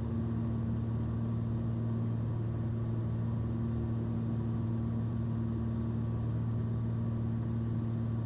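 Steady drone of a Cessna 340's twin piston engines heard from inside the cabin on final approach with the gear down, a low even hum with no change in pitch.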